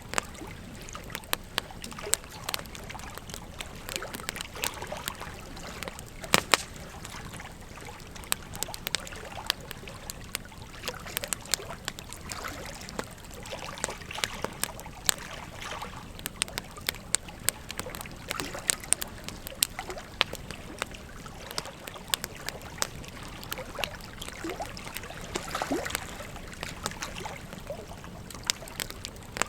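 Wood fire crackling, with frequent irregular sharp pops, over the steady rush of river water.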